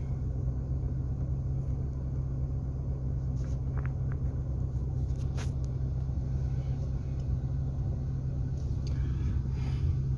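Car engine idling steadily with a low, even hum, heard from inside the cabin. A few faint clicks come a few seconds in.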